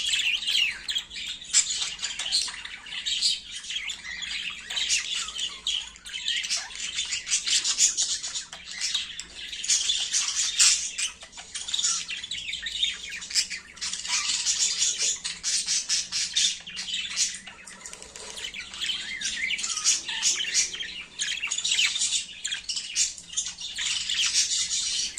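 Budgerigars chattering and squawking: a dense, unbroken stream of short, high chirps and squawks.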